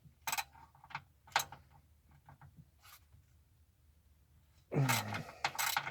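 A few separate sharp metallic clicks from a 3/8-inch ratchet and 10 mm socket working on a rear oil pan bolt. Near the end a louder man's voice comes in.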